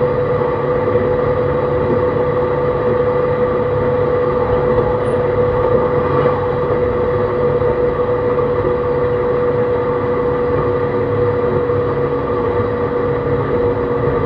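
Running sound of a JR East E131 series 600 subseries electric train on the move: wheels and rails rumbling under steady whines from the traction motors and their Hitachi hybrid-SiC VVVF inverter. The whine holds one pitch throughout, with the train at a steady speed.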